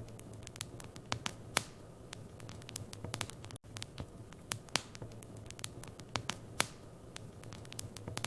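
Wood fire in a fireplace crackling, with irregular sharp pops and snaps over a low steady hum. The sound briefly drops out about three and a half seconds in.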